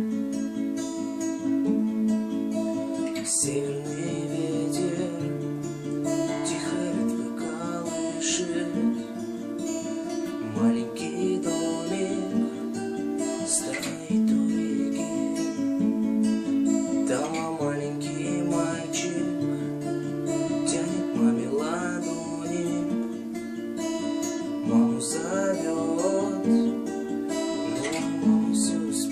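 Music: an instrumental passage of a song led by strummed acoustic guitar.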